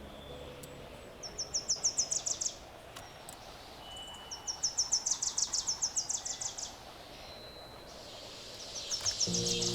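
A songbird singing rapid high-pitched trills of about eight short notes a second, each trill lasting one to two seconds. It sings twice, with a pause between, and starts a third trill near the end.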